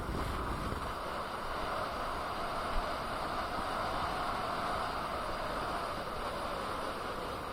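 Steady rolling hiss of tyre and wind noise while riding a KingSong KS18S electric unicycle, with a single short knock about three seconds in.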